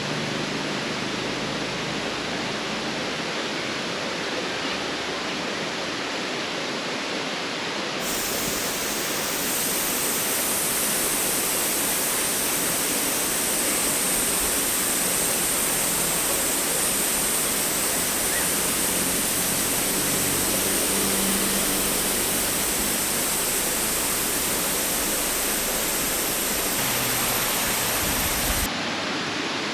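Steady rushing noise of flowing water. It steps up louder and brighter about eight seconds in and drops back suddenly just before the end.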